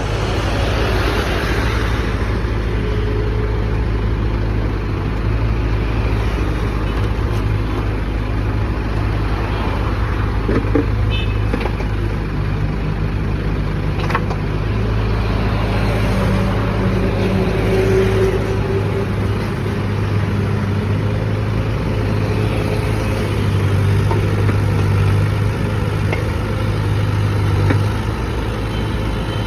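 Diesel engine of a JCB backhoe loader running steadily under work, its note shifting slightly now and then.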